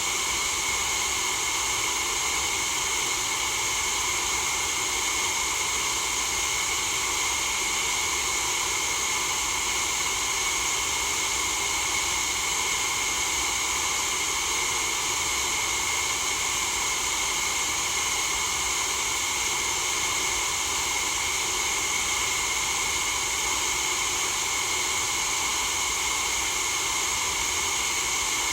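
Steady white noise: an even, unbroken hiss, weighted toward high pitches, that never changes in level.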